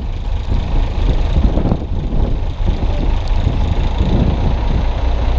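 Strong wind buffeting a GoPro Hero 2 microphone, a steady deep rumble with gusty rustling above it.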